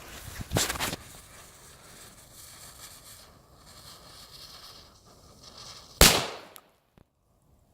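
Cobra 11 Junior firecracker, a long tube holding only a small flash-powder capsule, going off with one sharp bang about six seconds in that rings out briefly. Before it there is a brief noisy burst near the start and a faint steady hiss.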